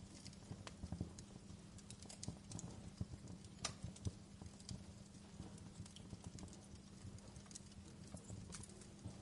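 Campfire burning with irregular crackles and pops of burning wood over a low rumble of the flames, one sharper pop a little past the middle.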